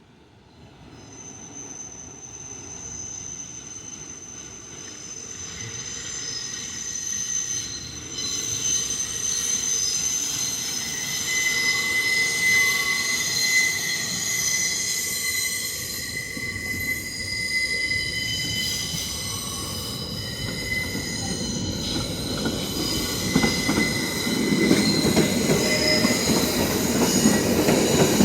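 New York City subway train approaching, its wheels squealing in several steady high-pitched tones. The sound grows louder throughout, and a deeper rumble builds near the end.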